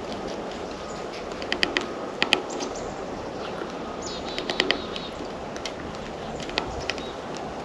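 Small birds at a feeder: clusters of sharp taps and clicks of beaks and feet on the feeder, with a short burst of high chirps about four seconds in, over a steady outdoor hiss.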